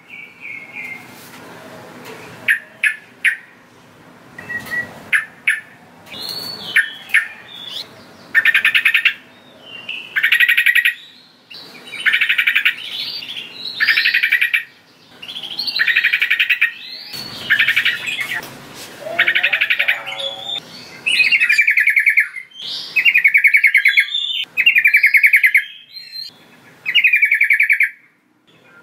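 Sooty-headed bulbul (trucukan) calling. A few short separate notes come first, then from about eight seconds in a string of phrases of rapid notes follows, each about a second long, repeated every second or two.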